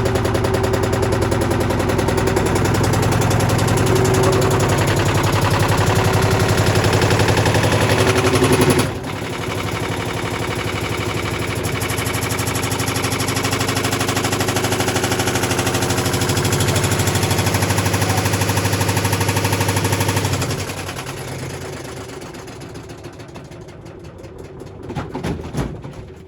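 Beko WTG941B2W washing machine on a fast spin with a loose motor thrown into its drum, banging rapidly and continuously over the drone of the spin. The noise dips briefly about nine seconds in, then winds down and fades from about twenty seconds in as the drum slows.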